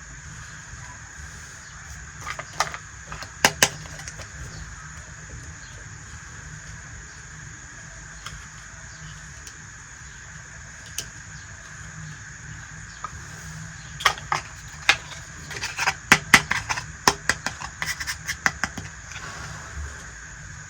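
Small pieces of a miniature toy kitchen set clicking and clacking as they are handled. A few sharp clicks come early, one lone click falls near the middle, and a quick run of clicks comes in the last third, over a steady background hiss.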